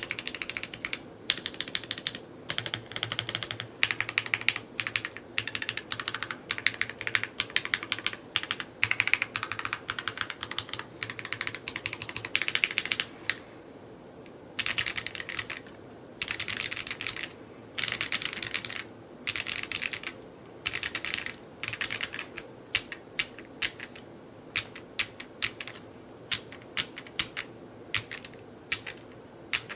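Fast typing on an Evo80 custom mechanical keyboard: rapid key clacks in runs of a few seconds, broken by short pauses.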